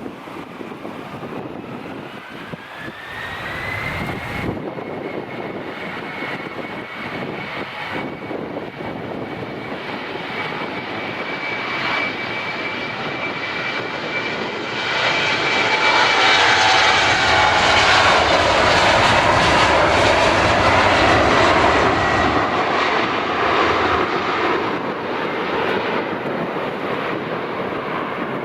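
Jet airliner engines spooling up: a whine rises over the first few seconds and then holds steady. About fifteen seconds in, a loud roar builds and then slowly eases off, as of an airliner powering along the runway on its take-off roll.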